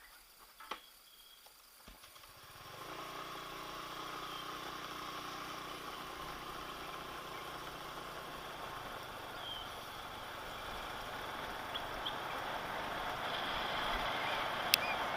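A motor vehicle's engine running steadily, its sound building gradually, with a few faint bird chirps over it.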